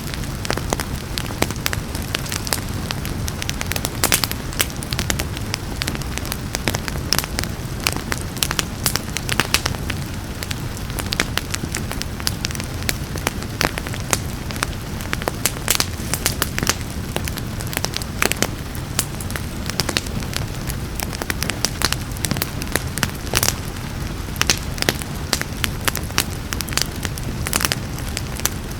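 Wood fire crackling and popping, with many sharp irregular snaps over a steady low rumble of the flames, mixed with a soft even hiss of rain.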